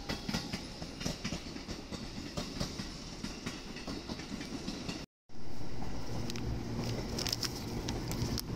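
Electric commuter train rolling past on the tracks, its wheels clicking irregularly over rail joints. About five seconds in the sound cuts out briefly and gives way to a steady low hum with a few clicks.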